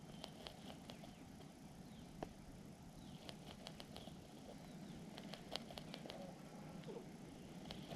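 Small bird at its nest making faint, scattered sharp taps and scratches, with two quick flurries about three and a half and five and a half seconds in, and faint high-pitched cheeps.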